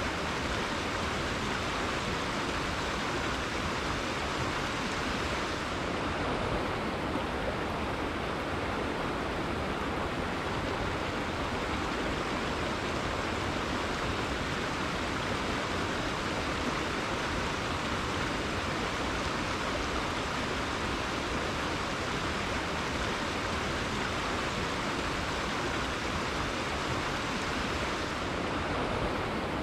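Rainforest river flowing: a steady, even wash of running water with no breaks.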